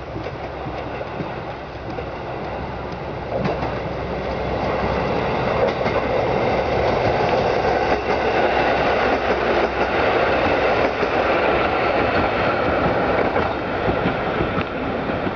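A two-car KiHa 125 diesel railcar running on the track, its wheels clicking over the rail joints. The running noise grows louder about four seconds in and stays loud.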